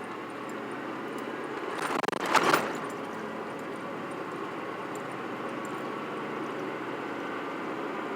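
Cabin noise of a Chevy C1500 pickup under way: steady engine and road noise, with a brief rustling rattle about two seconds in. The 1–2 shift's vibrating-spring sound the truck makes when cold does not occur here.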